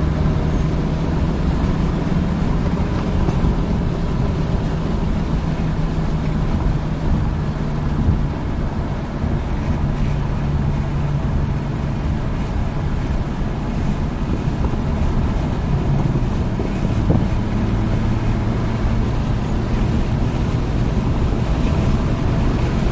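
Hyundai Elantra N's turbocharged four-cylinder engine pulling at steady revs at track speed, with wind and tyre noise, its note dropping in pitch about seventeen seconds in.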